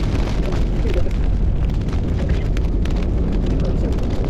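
Rain striking a vehicle as many small taps over a steady low rumble.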